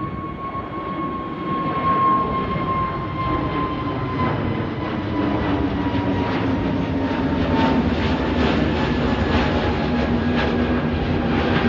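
Jet airliner's engines roaring at takeoff power, with a steady whine and a lower drone that both slowly fall in pitch as it goes past. The roar grows louder about two seconds in.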